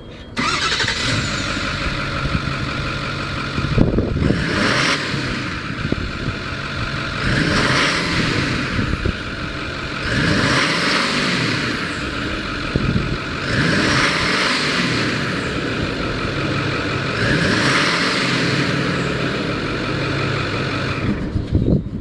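2008 Ford F-550 Super Duty truck engine starting just after the beginning and then idling. It is revved up and let back down five times, about every three seconds, then stops near the end.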